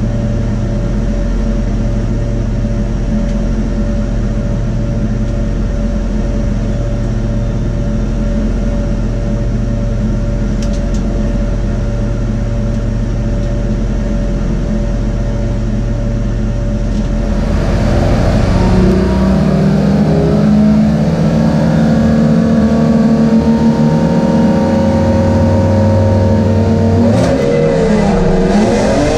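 BMW M3 race car's engine heard from inside the cabin, idling steadily. About two-thirds of the way through it gets louder and busier, and near the end the revs dip and rise again.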